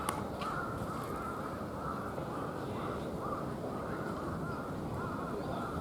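Crows cawing over and over, a short call about every half second, over a steady low rumble of wind on the microphone.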